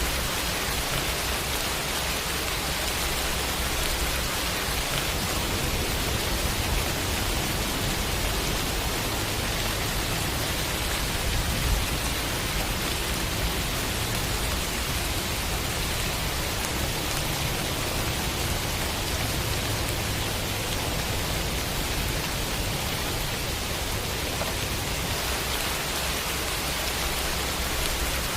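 Steady, heavy rain falling on a surface, an even continuous hiss without distinct drops or thunder.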